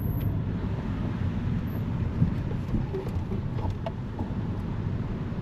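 A car driving, with a steady low road rumble and a few faint knocks and clicks in the middle.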